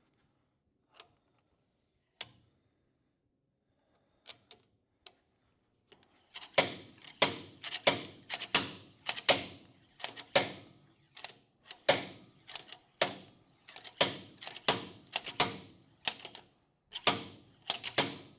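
Slide hammer fitted with an axle bearing puller being worked to pull the wheel bearing out of a GM 12-bolt rear axle housing. Its sliding weight strikes the stop in a run of sharp metallic clanks, about one to two a second, each ringing briefly. A few light clicks come first, and the hammering starts about six seconds in.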